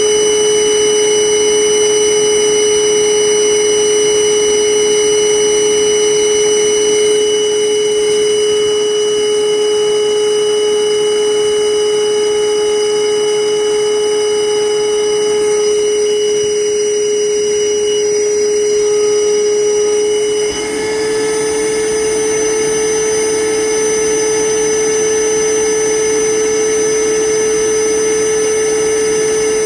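Wet/dry vacuum motor running steadily with a high whine while it sucks on a condensate drain line. About two-thirds of the way through, its pitch steps up slightly and it gets a little quieter.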